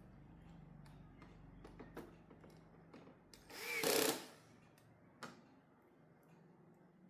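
A steady low hum like a small motor running, with scattered light clicks and one brief louder sound about four seconds in; the hum fades after that.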